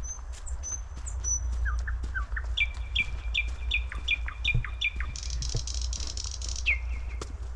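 Small songbirds calling in a forest: thin high whistles, then a run of about seven quick repeated notes, then a short buzzy trill, over a steady low rumble.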